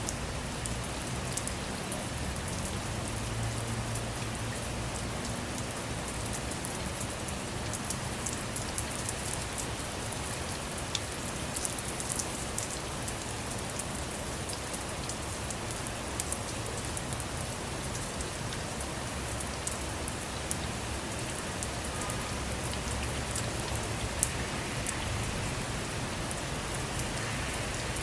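Steady rain falling on a car, with many individual drops tapping sharply over an even hiss, a couple of them louder, about 16 and 24 seconds in.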